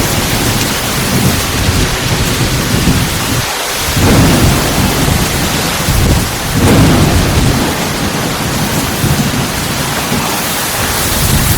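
Heavy thunderstorm: loud, steady pouring rain in strong wind, with deep rumbling surges swelling up about four seconds in and again near seven seconds.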